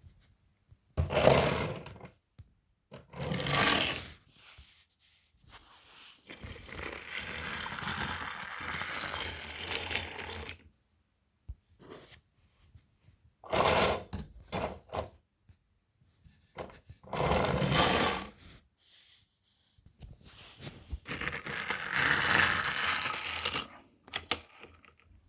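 Toy trains being run along toy track in a test run, making a rattling, rolling noise in separate runs. The runs last one to four seconds, with short quiet gaps between them, and the longest is a steadier stretch of about four seconds near the middle.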